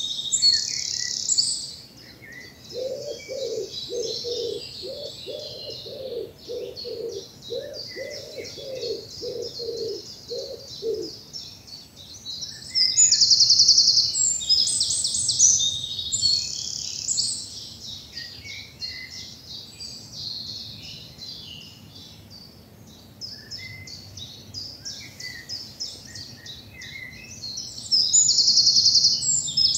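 Several woodland songbirds singing together in a spring dawn chorus, with high chirps and trills throughout. A loud, rapid, high trilling song bursts out about halfway through and again near the end. A lower call repeats about a dozen times from a few seconds in to about a third of the way through.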